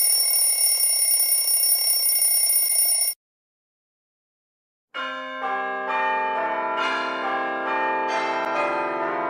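A bell rings continuously for about three seconds and cuts off suddenly. After nearly two seconds of silence, church bells start pealing, several bells of different pitches building into an overlapping ring.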